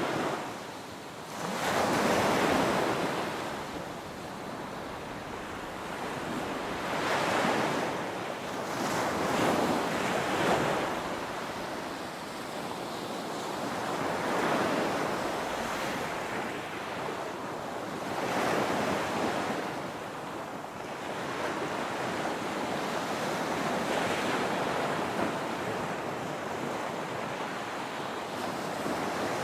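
Ocean waves breaking and washing up a sandy beach, the surf swelling and easing every few seconds, with some wind on the microphone.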